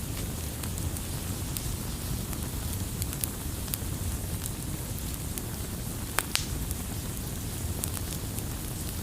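Wood campfire crackling, with irregular sharp pops over a steady low rush and one louder crack a little after six seconds.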